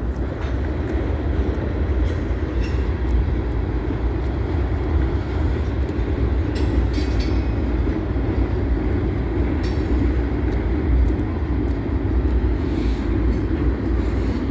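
Freight train rolling along the track: a steady low rumble of railcars with occasional short clicks.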